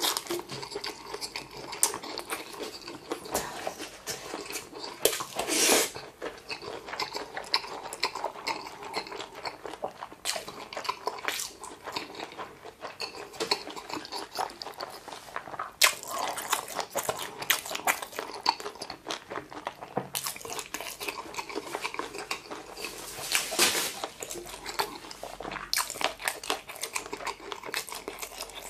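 A person chewing a full mouthful of boneless chicken feet with rice, with many small wet clicks of the mouth and a few louder bursts spread through.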